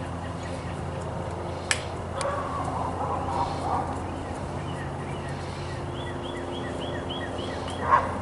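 A steady low hum, with a couple of sharp clicks about two seconds in and a rapid run of short high chirps, about six a second, near the end.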